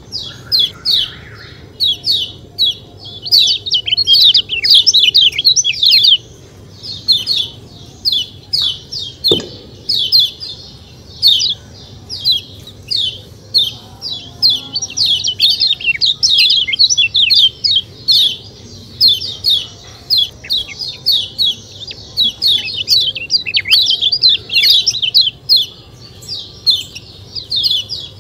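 Lemon-bellied white-eye (kecial kuning) calling without a break: quick, high 'ciak ciak' chirps packed closely together. A single click comes about nine seconds in.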